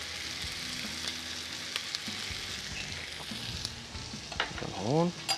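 Chopped vegetables frying in a pot, a steady sizzle throughout, with a few light clicks about two, three and a half and four and a half seconds in.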